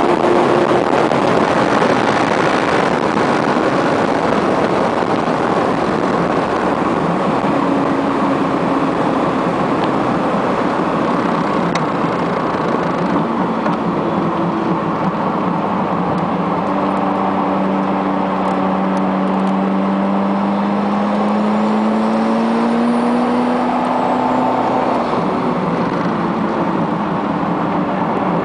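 Ferrari F40's twin-turbo V8 heard from inside the cabin at track speed, loud and continuous under heavy road and wind noise. In the second half its pitch climbs in a long rise, drops suddenly, then climbs again.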